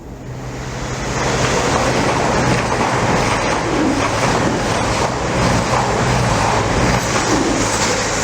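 Train passing close by: the rush of wheels on the rails builds over about the first second, then holds steady and loud, with a steady low hum underneath.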